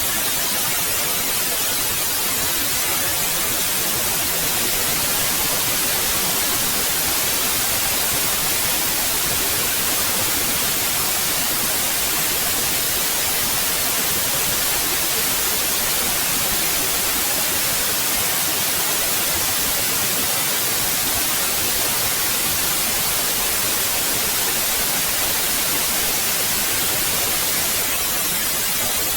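Steady, unchanging white noise: an even hiss with its energy weighted toward the high end, generated for sleep and tinnitus masking.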